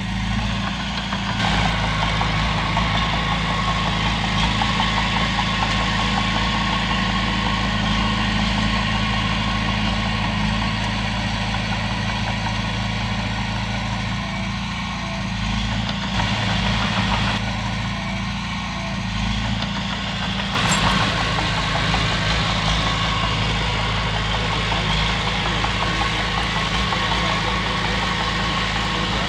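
Heavy diesel engine of a Komatsu bulldozer running steadily, its level rising and easing a little with load, with brief sharper noises about 1.5, 17 and 21 seconds in.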